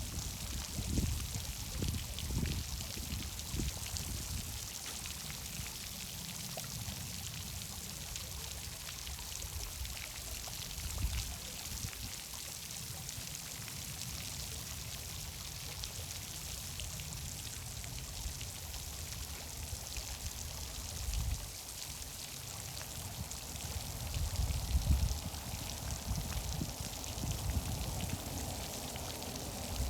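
Steady rushing noise of running water, with low rumbles and thumps now and then that are strongest about three-quarters of the way through.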